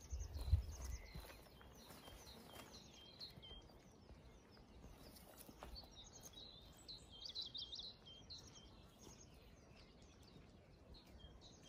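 Faint birdsong from small birds: short high chirps and trills, busiest about five to eight seconds in, over quiet open-air background. A brief low rumble comes at the start.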